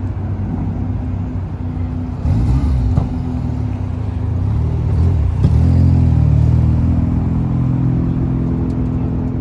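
Car engines running at low revs. The sound grows louder about two seconds in and again about five and a half seconds in, then holds steady.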